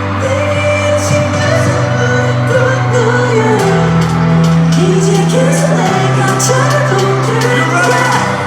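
Live pop music through a stadium sound system, with singing over sustained bass notes that change chord about four seconds in and again two seconds later.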